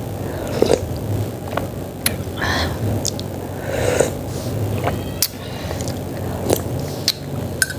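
Close-up eating sounds of chicken-feet soto: slurping broth and chewing, with scattered sharp mouth clicks, over a steady low hum.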